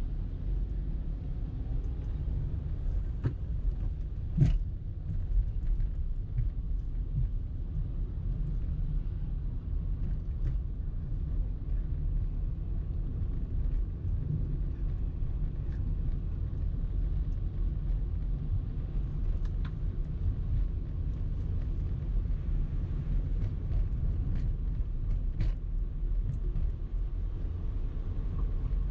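Steady low rumble of a car being driven, engine and road noise throughout, with a few brief clicks or knocks.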